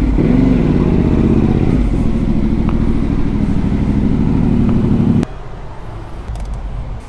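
Yamaha Tenere 700's 689 cc parallel-twin engine running through a full Dominator GP1 aftermarket exhaust, with a short rise and fall in revs about half a second in. The engine sound drops away abruptly about five seconds in, leaving a much quieter background.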